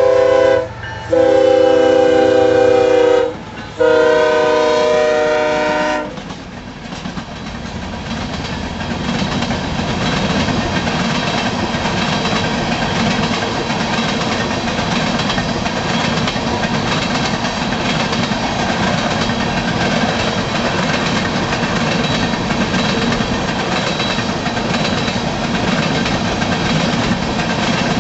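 BNSF diesel locomotive's air horn sounding a multi-note chord in long blasts with short breaks between, stopping about six seconds in. The train then rolls past with steady rumbling wheel-and-rail noise and clickety-clack.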